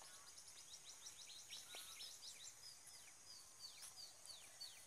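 Birds chirping faintly: many quick, high, descending calls, several a second and overlapping, over a light outdoor hiss.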